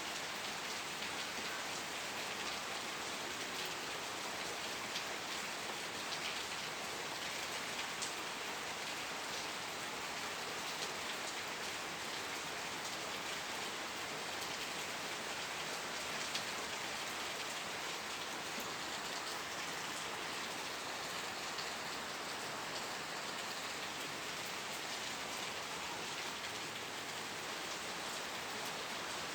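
Steady rain falling, an even hiss with many scattered individual drops ticking.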